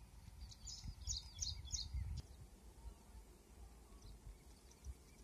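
A small bird chirping: a quick run of four or five high, short notes about half a second in, then a few fainter chirps later, over a low rumble of outdoor background noise.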